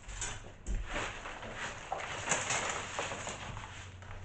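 A broom sweeping debris of rotten plywood and old flooring across a bus floor, in a run of short scratchy strokes.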